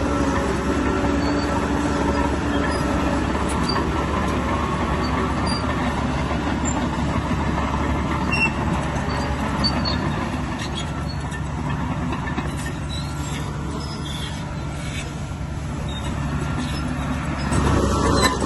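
Bulldozer working: its diesel engine running steadily under load, mixed with the grinding, metallic noise of its steel tracks. The sound eases off a little past the middle and swells again near the end.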